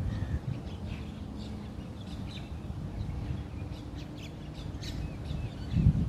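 Birds chirping: many short, high calls scattered through, busiest in the second half, over a steady low rumble. A low thump near the end is the loudest moment.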